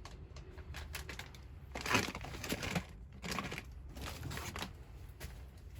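A few short bursts of crinkling and crunching, the loudest about two seconds in, over a low steady hum.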